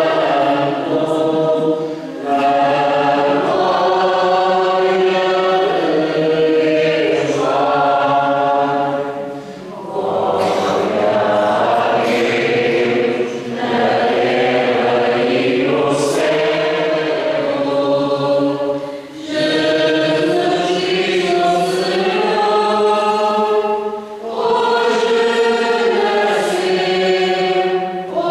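A choir singing a hymn in slow, sustained phrases, with short breaks between phrases.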